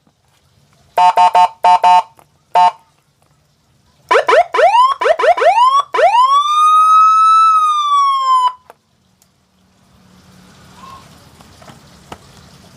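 Twelve-tone double-tone electronic siren module sounding through a horn speaker: four short two-note horn blasts, then a series of fast rising whoops, then one long wail that rises, holds and slowly falls before cutting off. Afterwards only a faint hiss and low hum remain.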